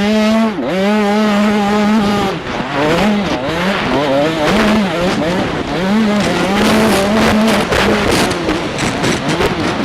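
Small two-stroke 85cc motocross bike engine revving hard, its pitch climbing and falling again and again as the throttle is opened and shut through the gears, with a sharp dip under a second in.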